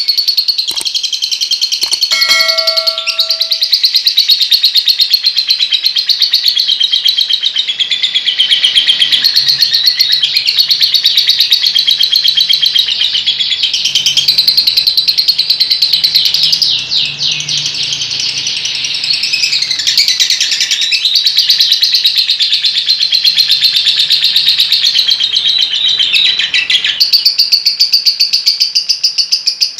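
Lovebird singing a long, unbroken 'ngekek' song: a fast, continuous run of shrill chattering chirps that pulse many times a second, with only a brief softening about two-thirds of the way through.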